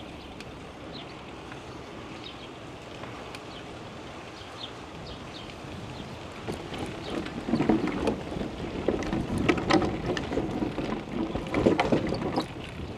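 Wind noise on the microphone of a moving bicycle, getting louder and gustier about six and a half seconds in, with scattered short clicks and rattles.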